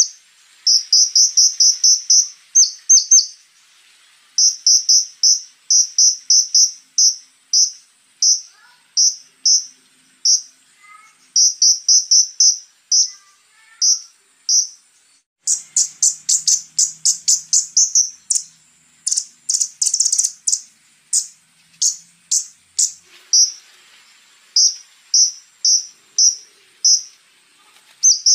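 Konin (scarlet-backed flowerpecker) calling in rapid runs of short, sharp, high notes, each run a burst of several notes followed by a pause. The notes come louder and harsher for a few seconds past the middle. A steady, thin, high insect-like buzz runs beneath.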